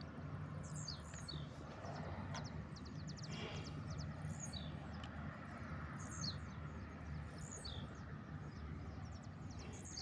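Small birds chirping now and then, with a couple of short rapid trills, over a faint steady low hum of outdoor background noise.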